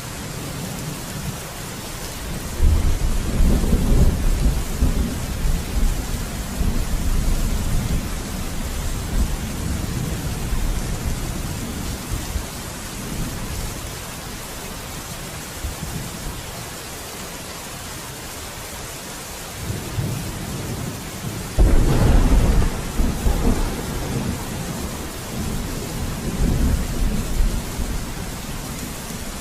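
Steady heavy rain with rolling thunder: a long rumble builds about two and a half seconds in and fades slowly, and a sharper clap breaks about twenty-two seconds in and rumbles on.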